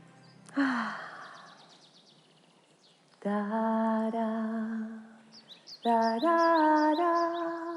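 Soundtrack of an animated scene. A quick swish about half a second in, then a woman's voice humming or singing two long held notes, the second higher, with short bird chirps over the second note.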